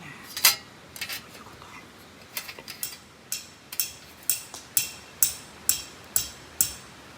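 A few irregular sharp scrapes, then a regular run of short, sharp, high-pitched scraping strokes, about two a second, starting about three seconds in and stopping shortly before the end.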